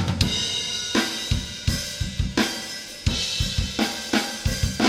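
Recorded metal drum kit playing back from a stereo drum bus through the Softube VCA Compressor plugin with stereo link engaged. Kick and snare hits land about every half second over cymbal wash.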